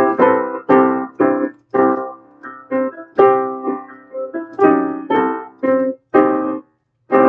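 Piano chords played one after another, each struck, held briefly and let go, with short gaps between some of them.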